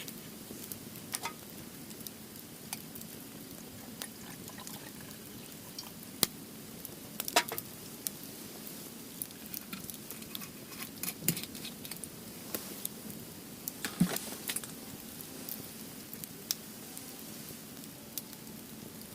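Wood fire crackling in a steel fire-grill stand. Irregular sharp pops and snaps, a few of them loud, come over a steady soft hiss.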